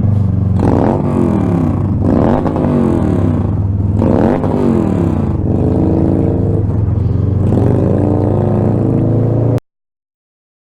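Motorcycle engine revving in traffic: a steady running note broken by about five rises and falls in pitch as the throttle is blipped. The sound cuts off abruptly near the end.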